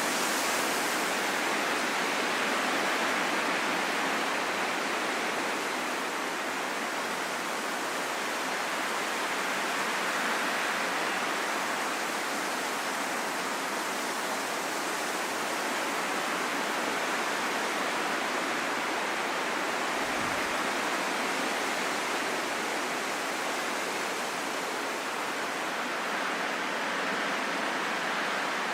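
Steady rain falling in a forest: an even, unbroken hiss of drops.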